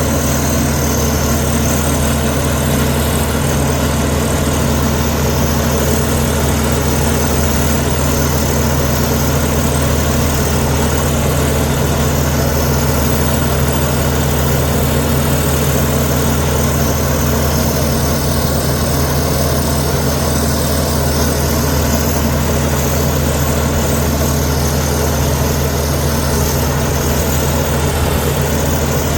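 Bulldozer diesel engine running steadily at a constant pitch, with no rise or fall in speed.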